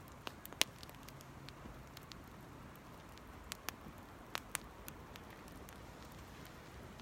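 Small campfire of dry cedar leaves and twigs crackling, with scattered sharp pops over a faint steady background.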